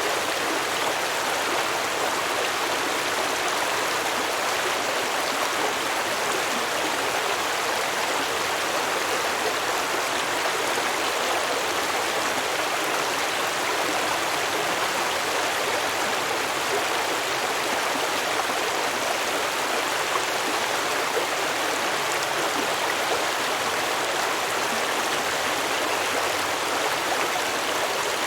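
A stream of water flowing over rocks, a steady rushing and babbling.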